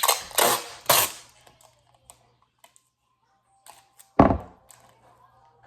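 Clear tape pulled off the roll in three short noisy pulls, then a single loud thud about four seconds in.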